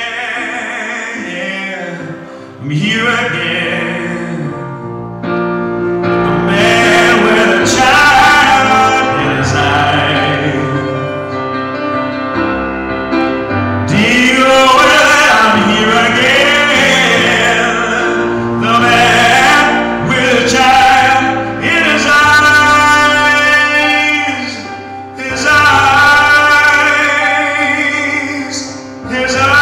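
Music: a song with long, wavering sung notes in an operatic style over instrumental backing, with no clear words.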